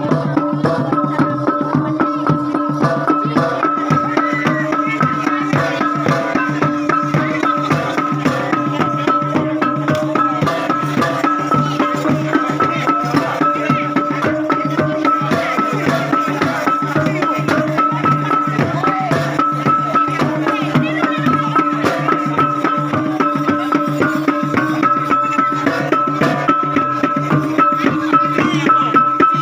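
Traditional gong-and-drum (gung-gendang) music: drums beating a fast, steady rhythm under held tones that step between a few pitches.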